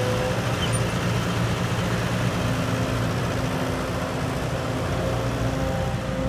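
Engine running steadily with a continuous low hum, typical of the heavy diesel machinery loading dirt at an earth pit.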